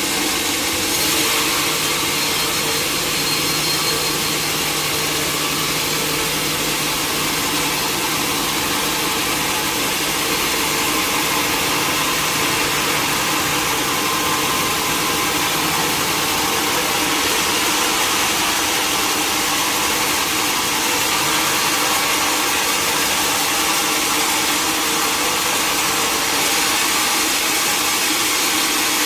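Sawmill machinery running steadily: a continuous loud mechanical noise with a steady engine-like hum underneath.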